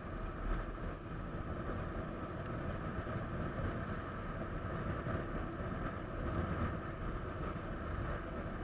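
Motorcycle riding at a steady pace, its engine running under heavy low rumble from wind on the microphone.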